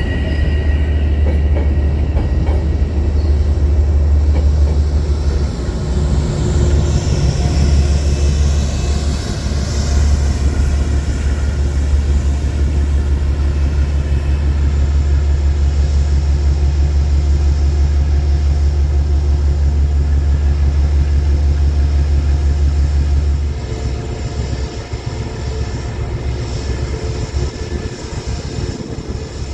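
Metro-North commuter train running through the station with a heavy, steady low rumble that drops away sharply about three-quarters of the way through. A high wheel-squeal tone fades out at the very start.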